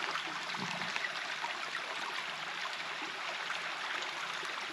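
A small stream flowing, a steady rush of water with faint trickling.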